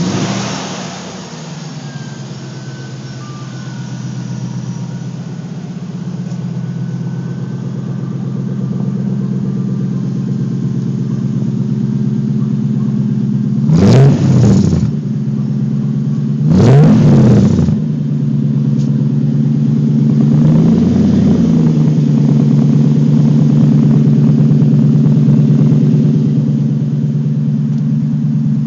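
Lexus LS 400's V8 exhaust through a single 3-inch straight pipe, catching as it starts and settling into a steady idle. It is blipped with three quick revs about halfway through, the third one smaller.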